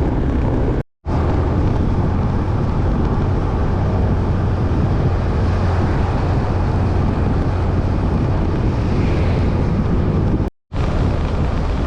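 Motorcycle engine running steadily under way, with wind rushing over the microphone. The sound drops out to silence twice for a moment, about a second in and near the end.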